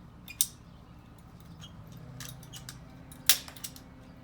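Hand-held PVC pipe cutter working on half-inch PVC pipe: a few light clicks of the tool, then one sharp, loud snap about three seconds in.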